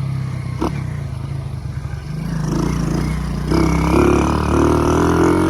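Motorbike engine running under way, with a sharp click about half a second in; from about halfway through the engine note grows louder and rises slowly as the bike accelerates.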